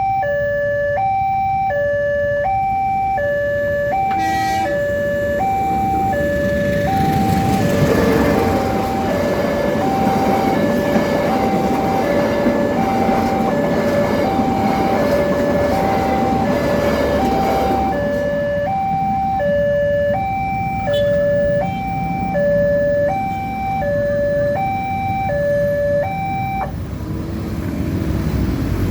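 A level-crossing warning alarm sounds, alternating between a higher and a lower tone about once a second. Partway through, a passing train's loud rumble swells over it for about ten seconds and then fades. The alarm cuts off near the end.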